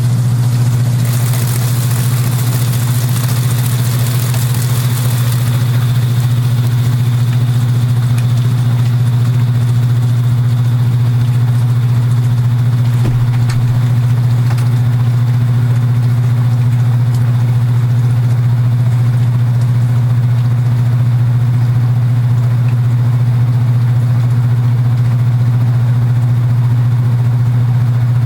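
Kenmore belt-drive portable washing machine running steadily: a strong, even low motor hum with the cabinet buzzing along. A hiss rises over it for a few seconds near the start.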